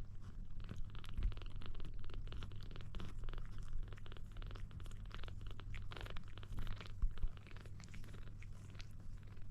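Kitten purring steadily, with many quick wet clicks of its tongue lapping milk.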